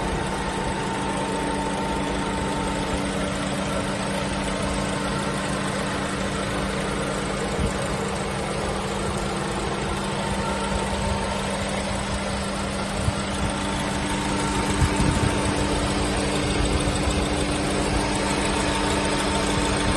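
A car engine idling steadily, getting slightly louder in the last few seconds.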